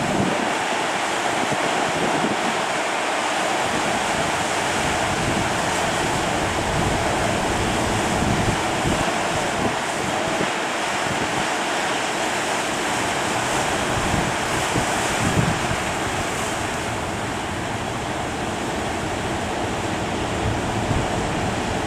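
Ocean surf breaking and washing at a river mouth, a continuous rush of waves, with wind gusting on the microphone.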